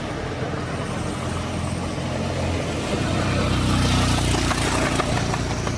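A motor vehicle engine running steadily, its pitch shifting and its level rising a little around the middle before easing off.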